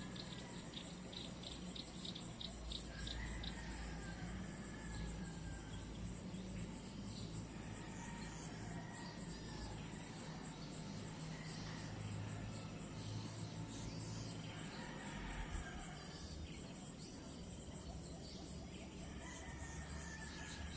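Nature ambience of crickets chirring in a steady, fast-pulsing high-pitched chorus, with a bird now and then giving short whistled calls that fall in pitch, over a low steady rumble.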